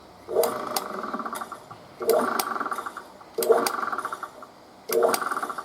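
Boat engine being turned over with a homemade hand crank: four spins about a second and a half apart, each a quick run of rapid mechanical ticking that dies away, with sharp clicks as the crank engages.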